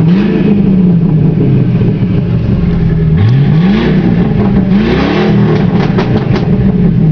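1999 Ford Crown Victoria's 4.6-litre V8 running with the exhaust open from the H-pipe back and no mufflers, idling and then blipped twice, the revs rising and falling back each time. A few sharp crackles come from the exhaust as the revs drop after the second blip.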